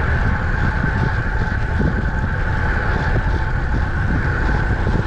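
Wind buffeting the microphone of a camera on a moving road bike, a steady low rumble, over a constant hiss from the tyres rolling on the road.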